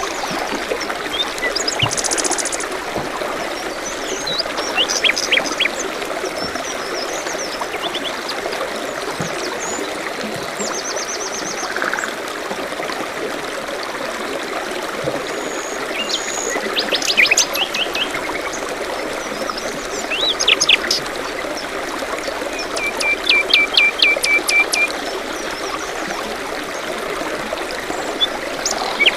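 Small forest birds chirping and singing in short, scattered phrases over a steady babbling stream, with a run of quick repeated notes about three quarters of the way through.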